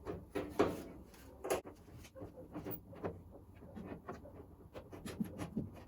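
Scattered light clicks and knocks from parts and tools being handled, irregular and brief, with no steady hiss.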